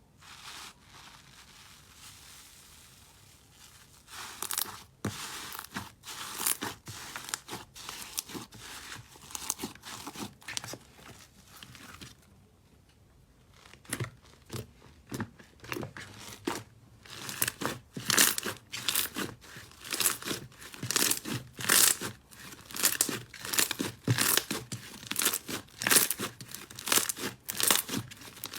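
Slime being squeezed and pressed by hand, giving sharp crackling pops. The pops come irregularly at first, pause briefly, and in the second half settle into a steady run of about two loud pops a second.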